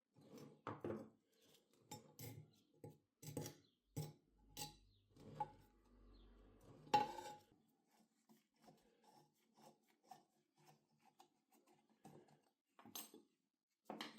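Metal parts of a rusty cast-iron charcoal iron being handled: a run of clinks, knocks and scraping, the loudest knock about seven seconds in, then lighter taps and two more knocks near the end.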